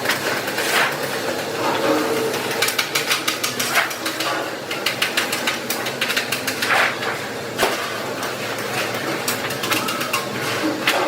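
Hammer blows on sheet metal, coming singly and in quick runs of rapid strikes, over a steady machinery hum.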